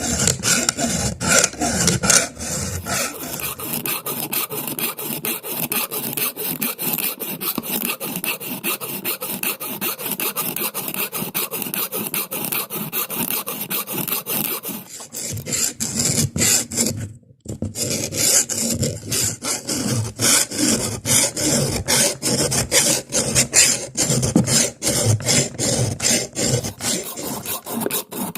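Hand file or rasp worked in quick, repeated strokes on the knife being made. It gives a steady scraping sound with a short pause a little past halfway.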